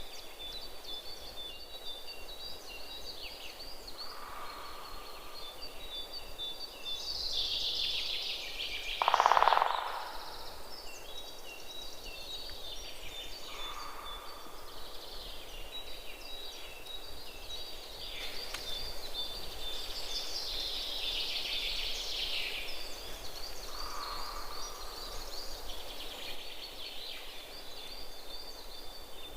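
Several wild birds chirping in a fast, high twitter throughout, with a lower call repeating about every ten seconds and one loud, lower call about nine seconds in.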